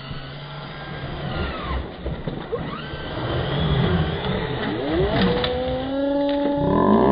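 Traxxas Rustler VXL RC trucks' brushless electric motors whining under throttle, the pitch gliding up and down as the throttle is pulled and the wheels spin in mud.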